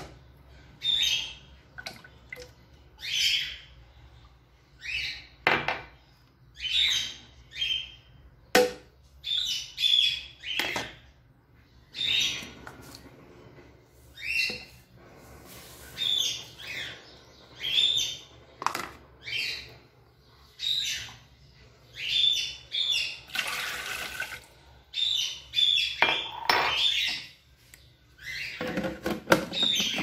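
A bird giving short, high chirping calls over and over, about one every second or so, with a couple of sharp knocks among them.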